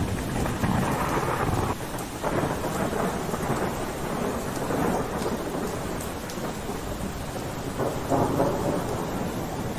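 Rain falling steadily, a continuous hiss with heavier swells that rise and ease every few seconds.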